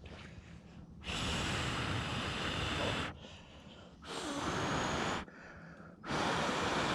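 A person blowing hard on glowing embers, three long blows with short pauses between, to coax the wet wood into flame.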